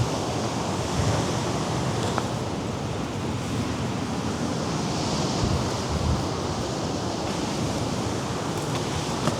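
Mediterranean surf washing against the rocky shore below, a steady wash of sea noise, with wind gusting over the microphone.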